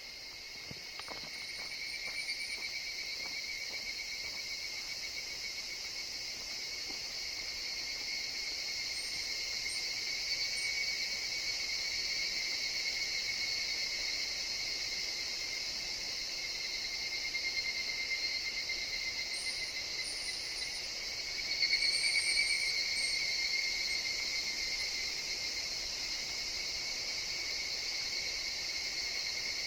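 Chorus of higurashi (evening cicadas) in a forest, a steady ringing insect drone that swells briefly about two-thirds of the way through, with a few faint high chirps around that time.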